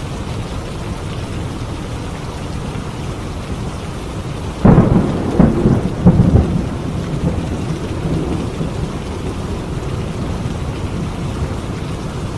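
Steady heavy rain, with a sharp thunderclap a little under five seconds in that rolls on in a few more loud rumbles for about two seconds before the rain alone carries on.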